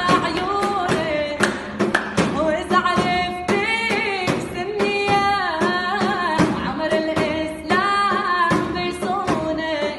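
A solo voice singing an ornamented melody with wavering, sliding pitch, over frequent sharp percussion strikes.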